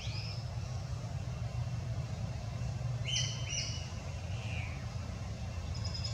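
Birds chirping over a steady low rumble: a rising chirp at the start, two short clear notes about three seconds in, and a few faint notes near the end.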